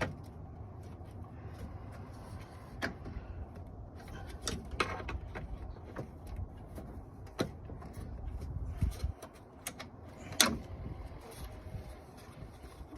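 Scattered clicks and knocks of hands working at plastic wiring-harness clips on a car's radiator fan assembly, over a low rumble. The sharpest click comes about ten seconds in.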